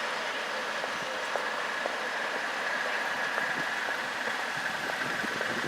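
NS ICMm 'Koploper' intercity train rolling over the rails: a steady rush of rail noise with a faint high tone and a few faint wheel clicks.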